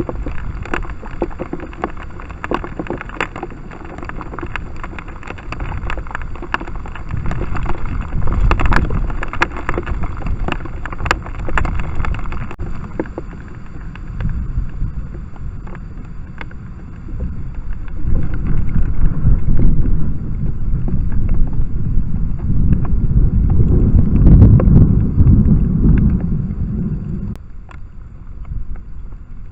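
Tropical-storm wind buffeting a trail camera's microphone in heavy, rumbling gusts that rise and fall, with scattered sharp taps over it. The sound changes abruptly near the end.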